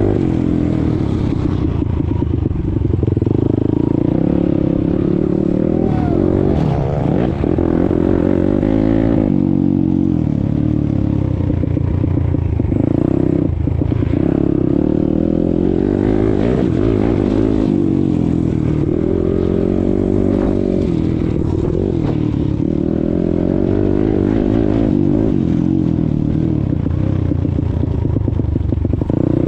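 YCF 190 Daytona Bigy pit bike's single-cylinder four-stroke engine running under load, its pitch rising and falling again and again as the throttle is opened and closed through the ride.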